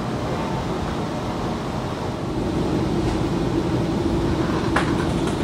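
Steady rumble of a passenger train running, heard from inside the Argo Parahyangan's panoramic coach, with a steady hum joining about two seconds in and a short click near the end.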